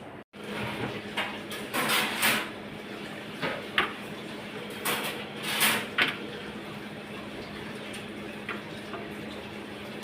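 Household handling noises: several short scraping or rustling sounds and a few light knocks over a steady low hum.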